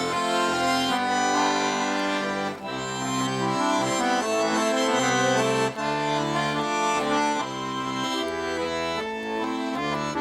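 Accordion playing the instrumental introduction to a Russian folk-style song: a melody over held bass chords, with no voices.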